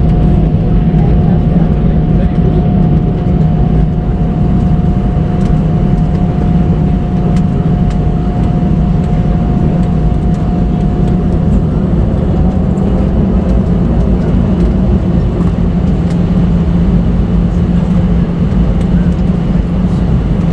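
Airliner cabin noise heard from inside the passenger cabin: the jet engines and air systems keep up a loud, steady rumble with a low hum, and a faint steady whine fades out about halfway through.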